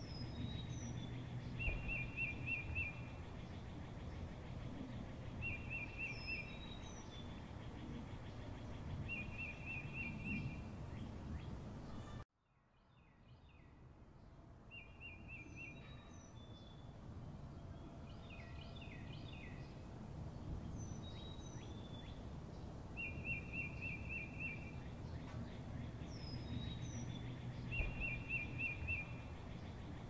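Outdoor birdsong ambience: a short trill repeats every few seconds, with higher thin chirps between, over a steady low background hum. The whole track cuts out suddenly about twelve seconds in, then fades back up.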